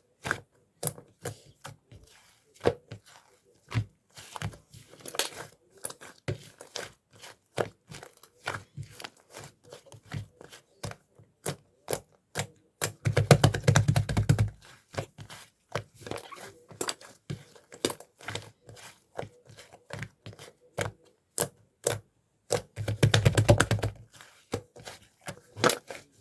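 Lavender clay slime being worked by hand, giving a constant run of sticky clicks and small pops. Twice, about halfway through and again near the end, it breaks into a second or so of dense, louder crackling as the slime is squeezed or pressed.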